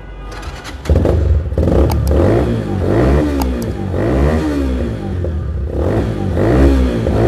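Regal Raptor GTXL 160cc motorcycle engine starting up about a second in, then revved repeatedly, its pitch rising and falling with each blip of the throttle.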